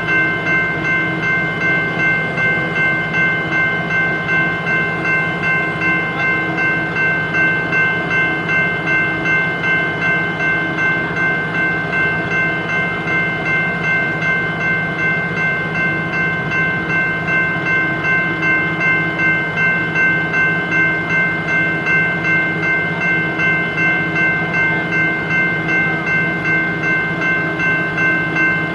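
A BNSF freight train rolling past, with a steady ringing of several high tones over its rumble and an even pulse about three times every two seconds.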